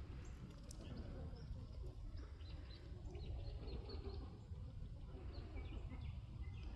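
Faint, short chirps of small birds, repeated many times, over a low steady outdoor rumble.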